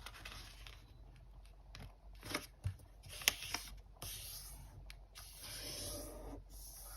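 A square sheet of origami paper being folded diagonally and creased by hand: soft rustling and sliding of paper, with a few crisp clicks near the middle.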